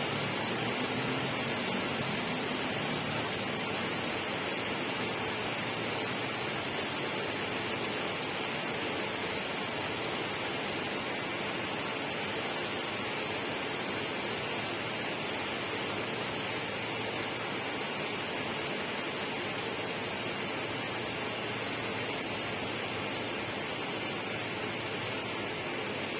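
A steady, even rushing noise that does not change, with no breaks, rhythm or distinct events.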